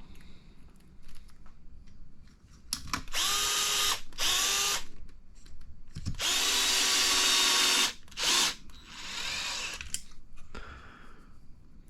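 Electric power screwdriver driving small screws into an RC buggy's shock tower, running in about five short bursts, each rising in pitch as the motor spins up; the longest burst lasts nearly two seconds.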